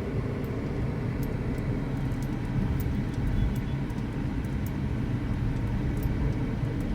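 Car cabin noise while driving slowly: the engine and tyres on the road make a steady low rumble.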